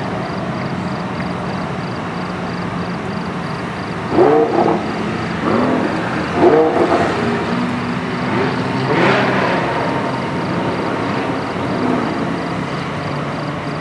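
Parade of sports cars driving past, engines running steadily, with a few short rising-and-falling engine sounds between about four and ten seconds in, the loudest near the middle.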